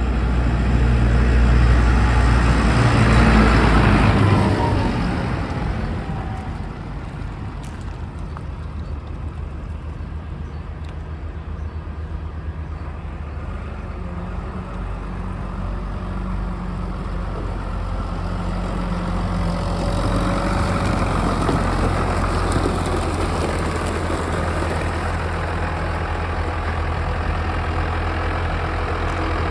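Massey Ferguson 7485 tractor's six-cylinder turbocharged Sisu diesel running: loud for the first few seconds, its revs falling away about four seconds in, then settling into a steady idle that grows a little louder in the second half.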